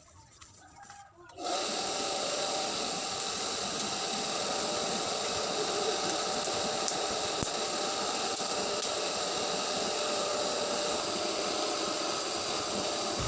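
A motor-driven machine starts about a second and a half in and runs steadily with a hiss and a steady whine.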